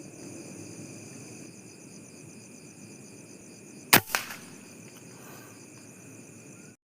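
A single sharp gunshot about four seconds in, followed a moment later by a smaller crack, over a steady chorus of crickets and other insects.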